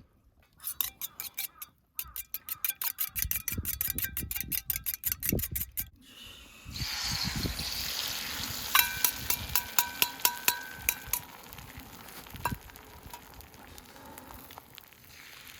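Fast, even knife chopping on a cutting board, about five strokes a second, stopping about six seconds in. After that a soft hiss rises, and then comes a run of loud ringing clinks of a metal utensil against a dish or bowl.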